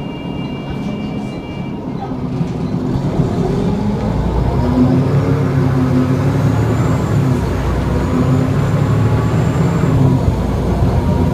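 Volvo B7L bus's rear-mounted six-cylinder diesel engine running and pulling away, getting louder from about three seconds in, heard from on board with a faint high whine over it. A few thin high electronic tones stop near the start.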